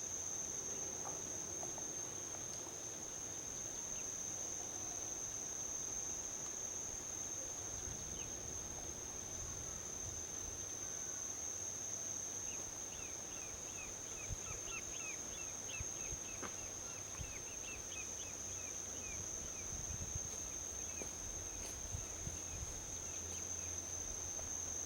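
A steady high-pitched insect trill, with a bird giving a quick run of short chirps about halfway through, over a low uneven rumble of distant highway traffic.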